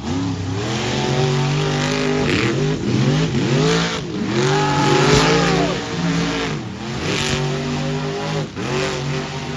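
Monster truck engines revving, the pitch climbing and falling again and again with each blip of the throttle, more than one engine at times.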